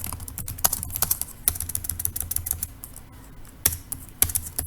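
Computer keyboard being typed on: irregular keystroke clicks, several a second, over a faint low hum.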